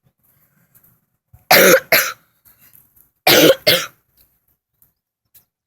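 A person coughing close to the microphone: two loud double coughs, each a longer hack followed at once by a shorter one, nearly two seconds apart.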